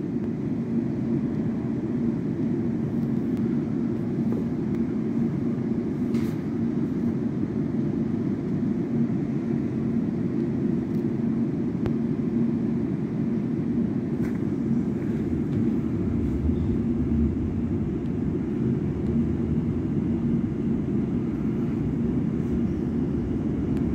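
Electric passenger train heard from inside the carriage: a steady hum with a constant low tone while it stands at the platform, then pulling away, with a deeper rumble building about two-thirds of the way in as it gathers speed.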